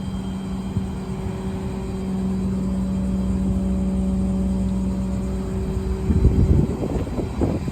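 A vehicle engine running with a steady low hum. About six seconds in, louder, uneven rumbling joins it.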